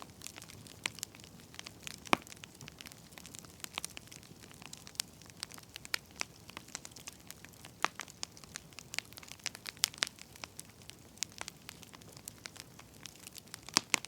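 Wood fire crackling: irregular sharp pops and snaps over a soft hiss, with a louder pop about two seconds in.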